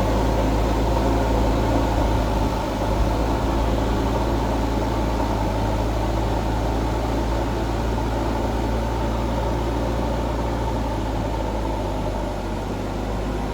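Mahindra 4WD tractor's direct-injection diesel engine running steadily with a deep, even drone, easing off slightly near the end.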